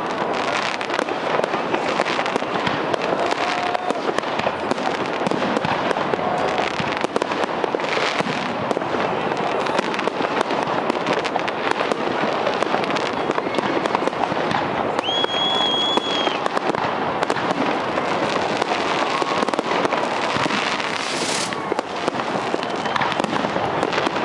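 Fireworks display: a dense, continuous crackle of shells bursting and popping overhead, with a high steady whistle lasting about a second partway through.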